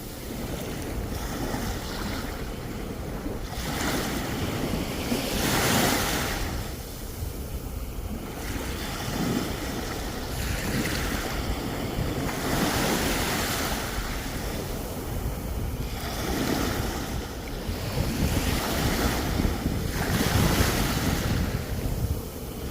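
Sea waves breaking and washing up the shore, each surge swelling and fading every few seconds, with wind rumbling on the microphone.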